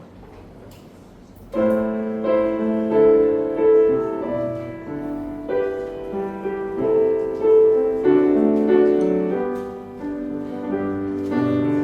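Quiet room tone, then about a second and a half in an instrumental ensemble starts a slow hymn in held, changing chords.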